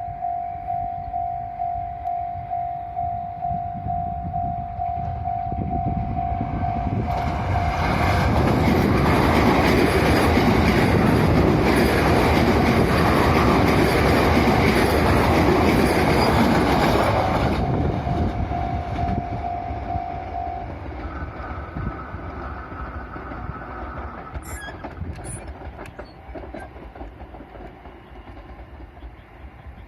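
Japanese level-crossing alarm ringing in steady repeated dings, then a JR West 225 series 6000 subseries electric train passes loudly for about ten seconds, drowning it out. The alarm rings on for a few seconds after the train and stops about twenty seconds in, leaving the fading train noise.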